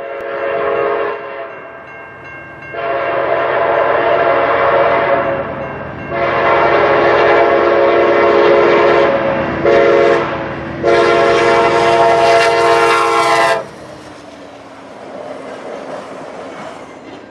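GE P42DC diesel locomotive's multi-chime air horn blowing a series of blasts, several long ones and then a short and a long in the pattern sounded for a grade crossing. The horn stops abruptly and the passenger train's rumble and clickety-clack of wheels on rail follow as it passes.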